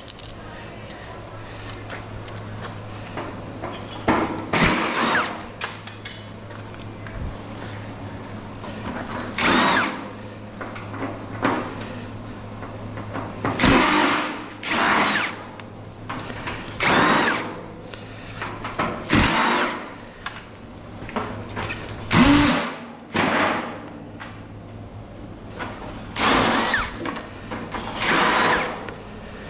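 Power drill running in short bursts of a second or two, about ten times, its motor pitch rising and falling with each trigger pull, as screws are driven out of scrap appliances. A steady low hum runs underneath.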